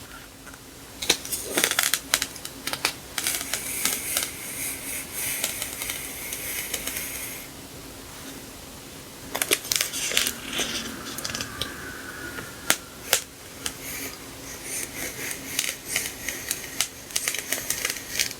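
Sticker sheets and their plastic and paper packaging being handled: crinkling and rustling in stretches, with many sharp clicks and light taps.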